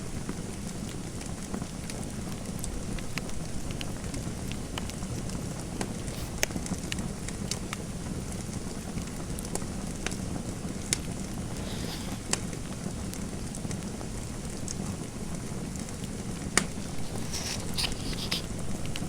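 Wood fire in a fireplace crackling, a steady low hiss with scattered sharp pops at irregular intervals.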